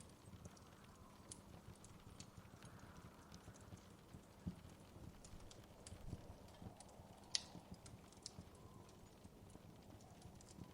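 Wood fire crackling softly in a fireplace: irregular small pops and snaps over a low steady hiss and rumble, with one sharper pop a little past the middle.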